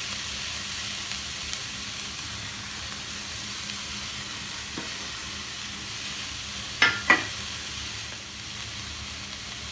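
Chopped carrots and beans sautéing in hot oil in a pan, a steady sizzle. Two sharp taps come close together about seven seconds in.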